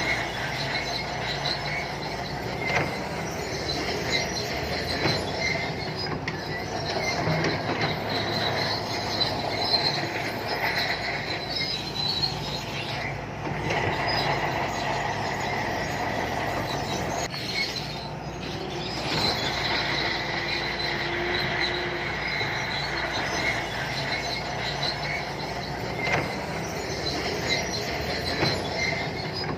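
Santui crawler bulldozer working: its diesel engine drones steadily while the steel tracks squeal and clank as it pushes mud.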